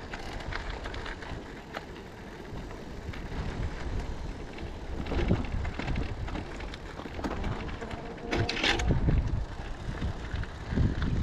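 Riding noise from a Riese & Müller Roadster e-bike: wind buffeting the microphone over the rumble of the tyres on the trail. A short louder sound with a pitched tone cuts in about eight seconds in.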